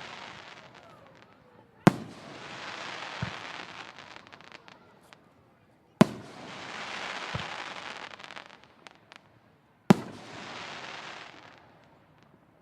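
Fireworks: three sharp bangs about four seconds apart, each followed by a crackling, hissing shower that fades over two to three seconds.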